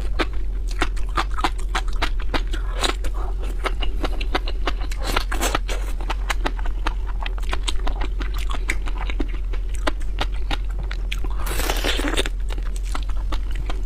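Close-miked chewing and biting of raw seafood: a dense, irregular run of small wet clicks and crunches, with a longer slurping swish near the end. A steady low hum sits underneath.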